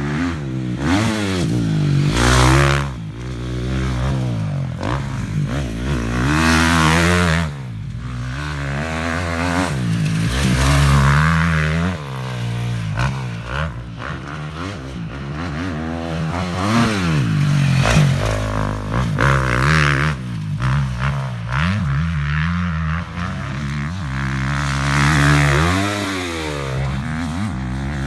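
Dirt bike engine revving up and falling back again and again as it is ridden, its pitch climbing and dropping with the throttle every few seconds.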